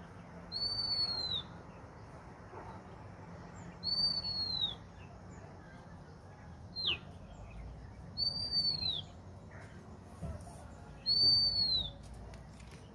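A bird repeating a single high, clear whistled note that rises and then falls, four times at intervals of three to four seconds, with one shorter, sharply falling note between the third and fourth calls.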